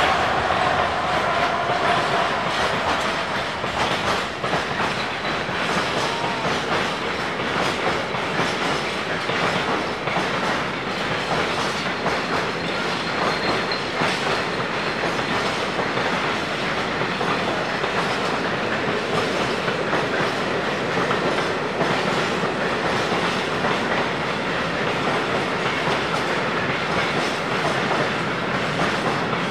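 A long freight train of covered wagons rolling past, its wheels giving a steady rumble and clatter over the rails. A faint squealing tone from the wheels fades out in the first few seconds.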